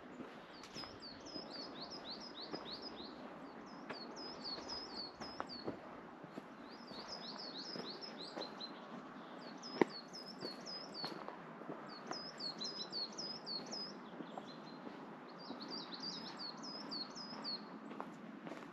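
A songbird singing repeated short bouts of quick, hooked high chirps, each bout a couple of seconds long with short pauses between, over a steady background noise. A single sharp click stands out about ten seconds in.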